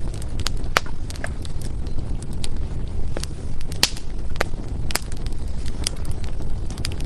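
Wood fire burning in a fireplace: irregular sharp crackles and pops from the burning logs over a steady low rumble of the flames, with the loudest pops about four and five seconds in.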